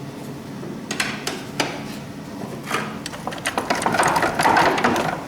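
A few separate metal knocks, then from about three seconds in a rapid rattling hammering from a power tool working on the front-suspension fasteners, loudest near the end; the part comes loose just afterwards.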